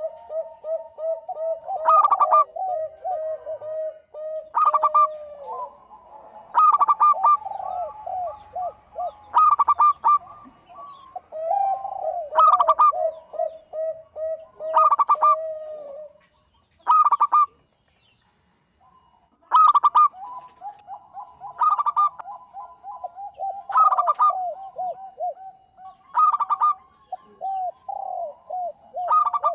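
Zebra doves (perkutut) calling in full song: fast, rolling coos with a louder, sharper note repeating about every two and a half seconds, and a brief lull just past the middle.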